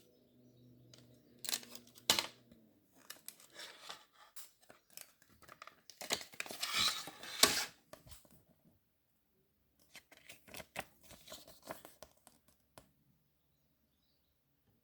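Plastic shrink-wrap being cut and torn off a CD, crinkling and tearing in uneven bursts that are loudest about six to eight seconds in and stop a couple of seconds before the end.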